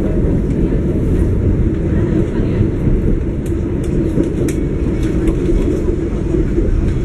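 Passenger train running along the track, heard from inside the carriage: a steady low rumble of wheels and coach, with a few faint high clicks around the middle.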